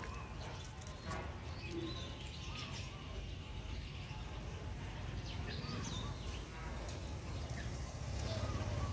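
Birds chirping, with a low coo, over a steady low rumble.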